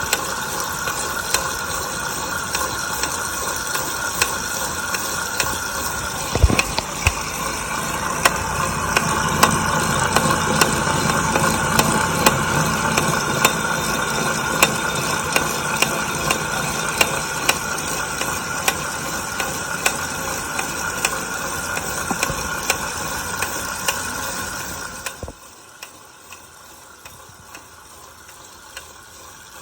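Wahoo Kickr smart bike trainer running with a steady whir and a repeated clicking at an even pace, the unwanted clicking noise it has developed. About 25 seconds in the whir drops away sharply, and the clicks carry on more faintly.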